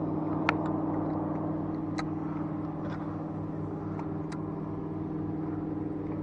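A steady low hum holding several unchanging pitches, with a few faint clicks scattered through it.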